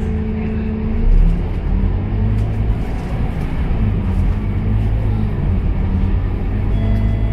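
Scania K230UB bus's diesel engine running under way, heard from inside the cabin. About a second in the engine note drops to a lower, deeper hum with a brief swell in loudness, then runs on steadily.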